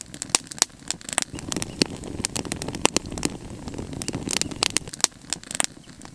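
Wood campfire crackling, with many sharp irregular snaps and pops over a steady low hiss.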